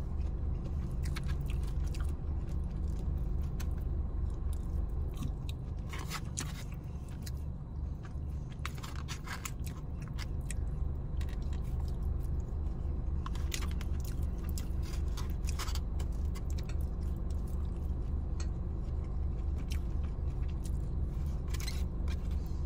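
Close-up chewing and mouth sounds of someone eating saucy takeout chicken and rice, with scattered clicks and scrapes of a plastic fork in a foam container, over a steady low hum.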